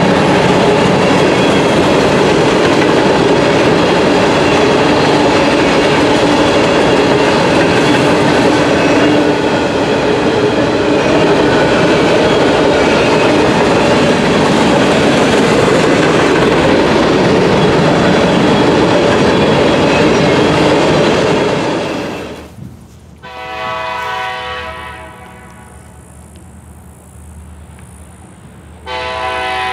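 Freight train of covered hopper cars rolling past close by with a steady rumble of wheels on rail. About 22 seconds in it cuts off, and a distant approaching diesel locomotive's multi-tone horn sounds in long blasts, louder near the end.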